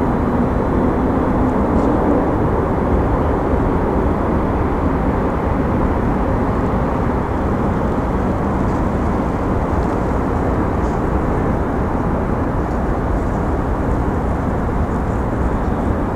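Steady low rumbling vehicle noise, with no breaks and no speech.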